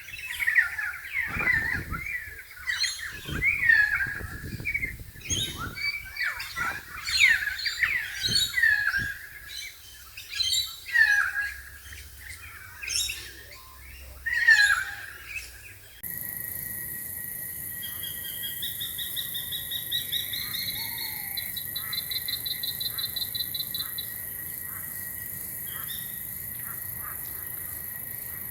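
Wild birds calling loudly in quick succession with sliding, chirping calls. About halfway through the sound cuts to a steady high-pitched insect drone, over which a rapid pulsing trill runs for several seconds.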